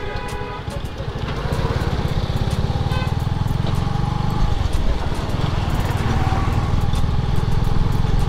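Motorcycle engine running while riding, building slightly over the first few seconds and easing off briefly about halfway through.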